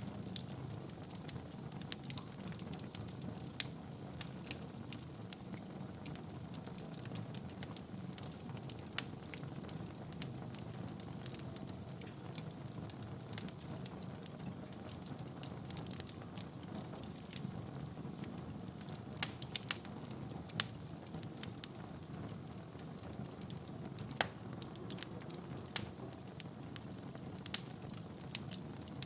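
Wood fire burning in a fireplace: a steady low rush of flames with irregular crackles and sharp pops from the burning logs.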